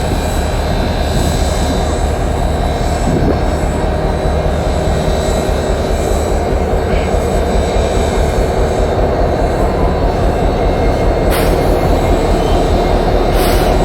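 A large engine running with a steady, loud drone that grows slightly louder, with two short hisses near the end.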